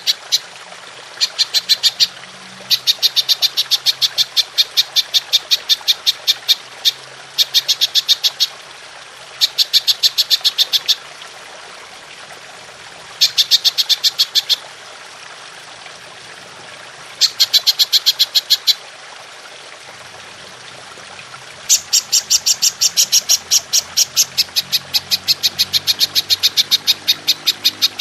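Belalang emas (golden grasshopper) calling in rapid, evenly spaced ticking trills, about nine pulses a second. The trills come in bursts of one to a few seconds with short pauses between them, and the longest burst runs through the last few seconds.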